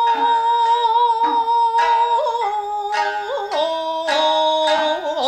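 Nagauta singing with shamisen: a singer draws out long held notes between words, bending the pitch from one note to the next. The shamisen is plucked beneath the voice, a few sharp notes about a second apart.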